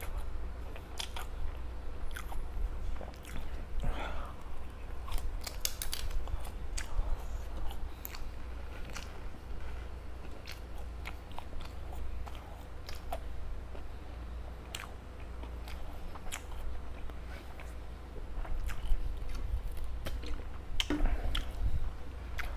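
Close-miked chewing and biting of homemade fish balls: irregular wet mouth clicks and soft crunches, over a steady low hum.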